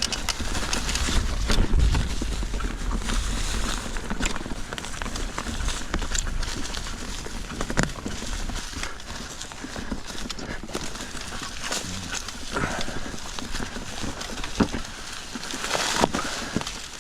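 Mountain bike riding over rocky singletrack: tyres knocking and scraping over rocks, with frequent sharp clicks and rattles over a low rumble.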